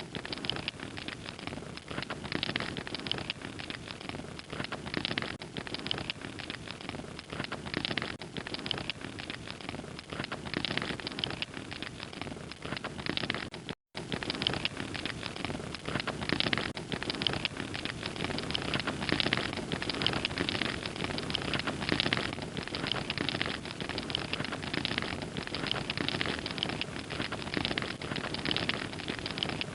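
Wood fire crackling steadily, a dense run of small pops and snaps over a soft hiss, with a brief total dropout about fourteen seconds in.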